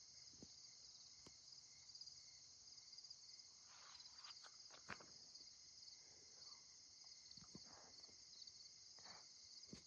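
Faint, steady chorus of night insects chirping in a fast pulsing trill, with a few soft ticks and rustles.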